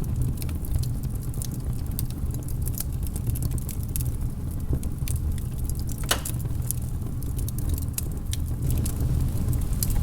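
Logs burning in a fireplace, crackling with scattered sharp snaps over a steady low rumble of the fire; one louder pop about six seconds in.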